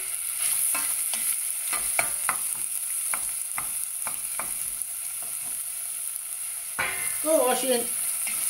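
Diced onion and green chilies frying in a stainless steel saucepan with a steady sizzle, stirred with a wooden spoon that knocks and scrapes against the pan about two or three times a second.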